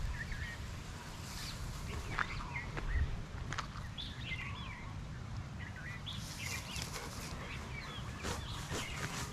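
Small birds chirping and twittering in short, scattered calls, over a steady low rumble.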